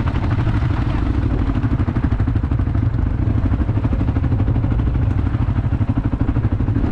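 Quad bike engine running steadily while riding, with a fast, even pulsing.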